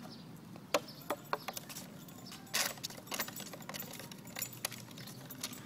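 Plastic water bottle being knocked about by a puppy's muzzle: scattered light clicks and rattles, a little louder about a second in and again near the middle.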